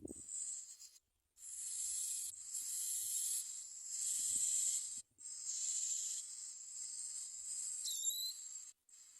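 Bar-winged prinia nestlings begging: a high, hissing rasp in long stretches with short breaks, and one brief sweeping chirp near the end.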